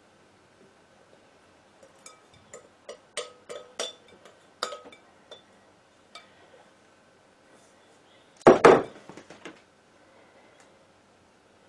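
A spoon tapping and clinking against a baking dish as crumble topping is spooned onto rhubarb, a quick run of ringing taps. Later comes one louder clatter, about a second long, of crockery or utensils knocking together.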